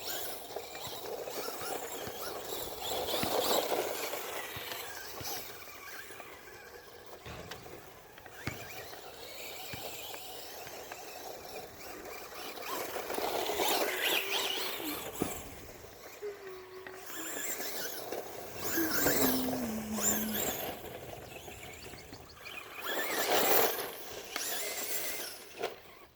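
Traxxas Rustler VXL RC truck with a brushless motor being driven: repeated surges of high motor whine and tyre noise as it speeds up and slows, about four main bursts, with a falling whine about two-thirds of the way through.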